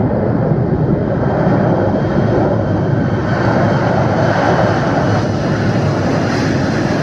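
Airliner engines running loud and steady in a dense rushing noise, with a high hiss that grows stronger over the seconds.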